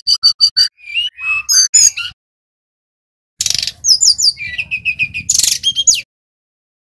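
Brown-chested jungle flycatcher (Bali type) singing: quick runs of sharp chirps and sliding whistled notes, pausing for about a second in the middle, then a second burst with scratchy buzzing notes that ends abruptly near the end.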